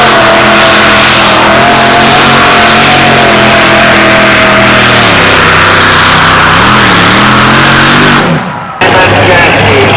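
Modified Chevy S10 two-wheel-drive pulling truck's engine running hard at high revs under load during a pull. Its pitch holds, sags about five seconds in and wavers near seven seconds. About eight seconds in the sound cuts out for half a second, and a lower, steady engine note follows.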